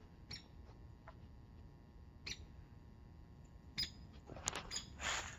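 A woodpecker making a few short, sharp sounds spaced irregularly, with a brief noisy burst near the end.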